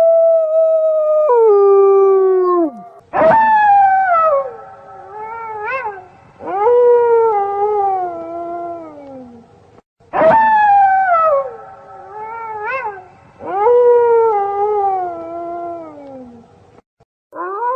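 Wolf howling: a long held howl that drops in pitch and trails off, then a falling howl broken by short rising yips and another long falling howl. The same sequence of howls then plays again, and a new steady howl begins near the end.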